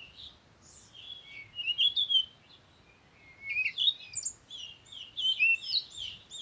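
Small birds chirping and twittering in quick high notes, in bursts about a second and a half in, again around three and a half to four seconds, and busily near the end.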